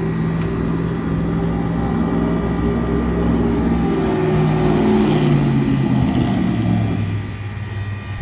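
Work van's engine running while driving, its pitch rising and dropping back as it shifts, easing off near the end.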